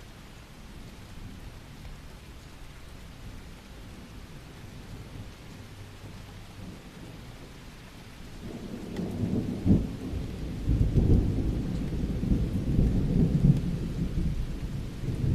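Steady rain, then about halfway through thunder breaks in with a sharp crack and a long, loud rolling rumble.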